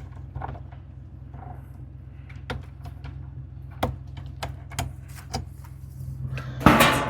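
An engine idling steadily under scattered metallic clicks and knocks, with a loud clatter near the end.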